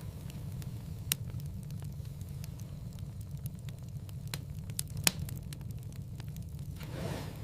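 Wood fire crackling in a fireplace over a steady low rumble, with scattered small snaps and two sharp pops, one about a second in and a louder one about five seconds in. A soft rushing swell rises near the end.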